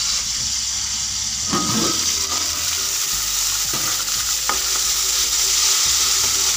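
Sliced onions and tomatoes frying in about a cup of hot oil in an aluminium pot, sizzling steadily. A clatter about a second and a half in and a few sharp knocks later come as the metal lid is lifted off and a wooden spoon goes in to stir.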